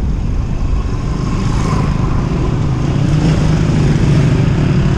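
Wind rushing over the microphone of a phone on a moving bicycle, with road traffic; a motor vehicle's engine hum builds from about halfway through.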